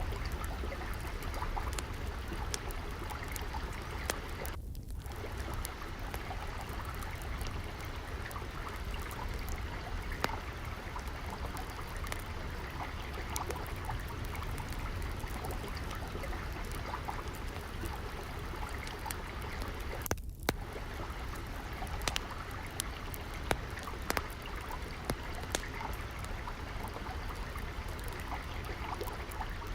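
Steady trickling, flowing water mixed with a crackling wood fire giving frequent sharp pops, more of them loud in the second half. The water sound drops out for a split second twice.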